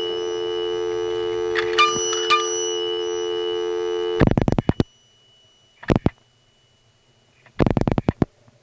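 A dime drops into a three-slot payphone and rings its mechanical bell with a double ding over a steady dial tone. About four seconds in the dial tone cuts off and the line carries three quick groups of rotary dial pulse clicks as a number is dialed.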